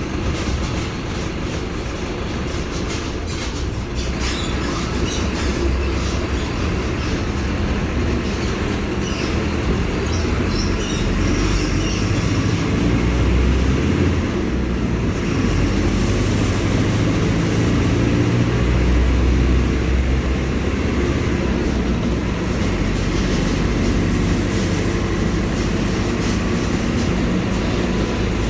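Diesel engine of a Caio Apache Vip II bus on a Mercedes-Benz OF-1721 BlueTec 5 chassis, running steadily with a deep rumble. It grows louder over the first twenty seconds or so, with light rattling throughout.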